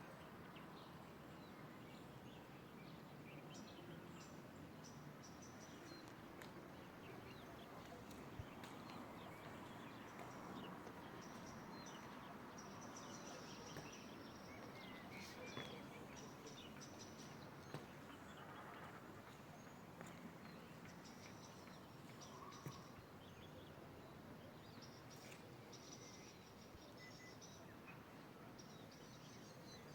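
Faint natural outdoor ambience: a low steady hiss with short, high chirps scattered throughout and a few soft clicks.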